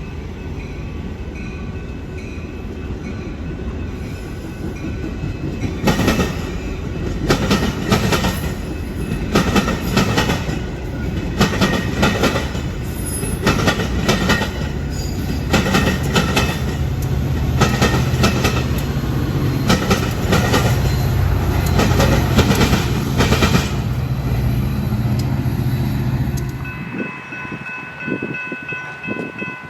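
Train passing close by: a steady low engine drone, with the wheels clacking rapidly over rail joints from about six seconds in. The clatter stops near the end, leaving a few steady higher tones.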